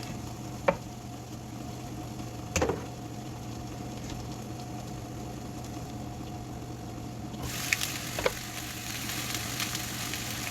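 Onion, garlic and lemongrass frying in olive oil in a covered pot, over a steady hum, with two sharp knocks in the first three seconds. About seven and a half seconds in, the sizzling grows louder, with crackles and a few clinks.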